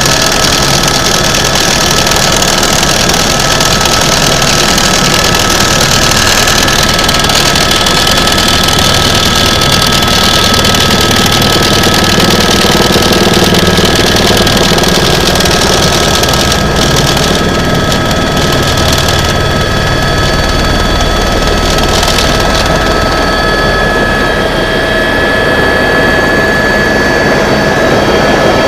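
Helicopter engine and rotor running steadily and loudly, with a steady high-pitched whine over the noise.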